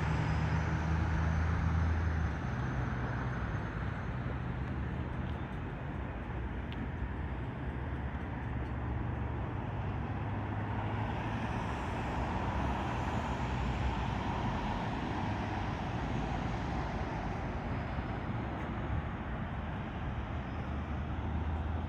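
Steady outdoor background noise: a low, even hum of road traffic with no distinct events.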